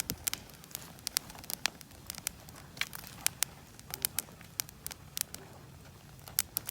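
Campfire wood crackling, with irregular sharp pops several times a second.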